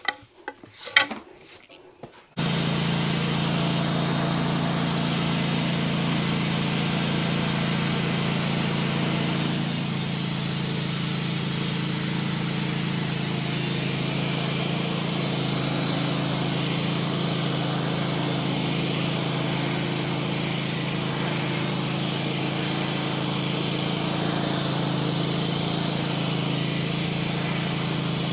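Wood-Mizer LT15 portable band sawmill running: a few short clicks, then the saw's motor starts abruptly a couple of seconds in and runs at a steady pitch. About ten seconds in a brighter hiss joins it, as the band blade works through the hard maple log.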